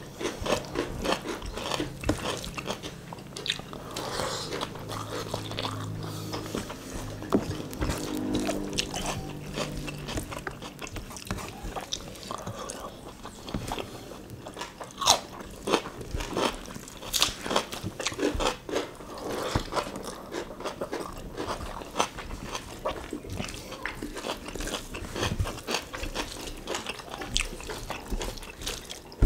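Two people chewing rice and fatty beef in sour-spicy asam pedas, eaten by hand, with irregular crisp crunches from bites of raw cucumber.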